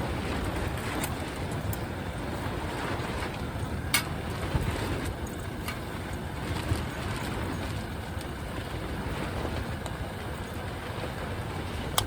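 Strong wind blowing in gusts, rumbling against the microphone, with a few sharp clicks or snaps scattered through it.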